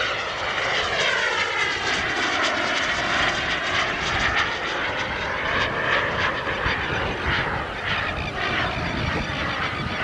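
Turbine engine of a large radio-controlled model jet in flight, a steady rushing whine whose pitch sweeps up and down as the plane passes by.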